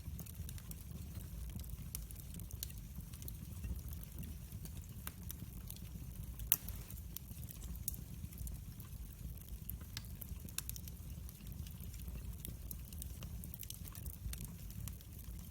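Wood fire burning in a fireplace: a steady low rumble of flames with scattered crackles and pops, the sharpest pop about six and a half seconds in.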